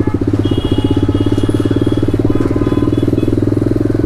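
TVS Apache RR 310's single-cylinder engine running through an SC Project aftermarket exhaust, held steady at cruising speed, its rapid firing pulses clearly audible.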